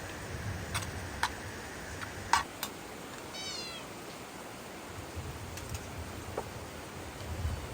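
Steady hiss of rain with a few sharp knocks, the loudest about two seconds in, and one short high-pitched animal call about a second later.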